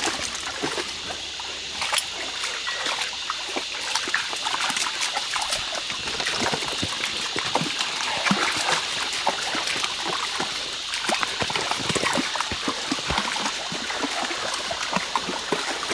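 Shallow creek water trickling over rocks, with frequent small irregular splashes.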